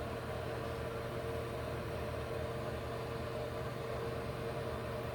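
Steady low machine hum with a faint hiss, even throughout and unchanged in level.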